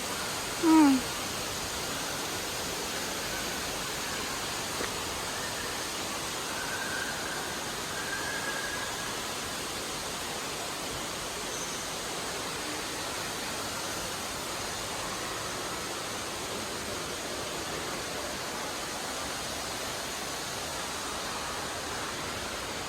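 Steady rushing of falling water, a waterfall in the indoor tropical rainforest. About a second in, one short, loud sound sweeps down in pitch.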